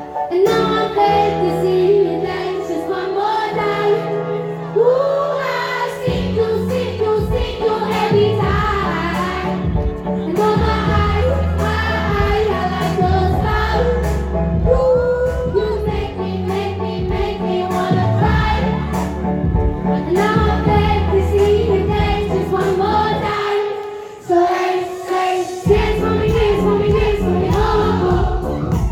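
Female pop singer singing live over a band with a steady beat. The bass comes in about six seconds in and drops out briefly near the end.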